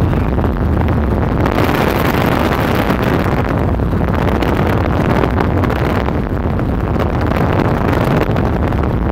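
Car driving at speed: steady road and engine noise with wind rushing over the microphone.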